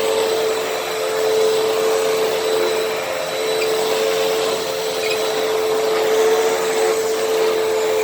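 Hoover WindTunnel T-Series upright vacuum cleaner running steadily with a constant motor whine, vacuuming a floor.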